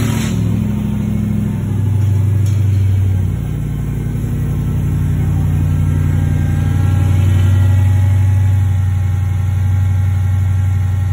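Hellcat supercharged 6.2-litre Hemi V8 swapped into a Jeep Gladiator, running at idle just after its first start-up. The idle speed rises and falls a few times in the first half, then settles and holds steady.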